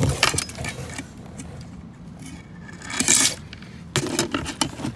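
Discarded electronics and scrap being handled and rummaged through: hard plastic and metal pieces knocking, clattering and scraping against each other in irregular bursts, with the loudest rustle-and-scrape about three seconds in and a run of quick knocks near the end.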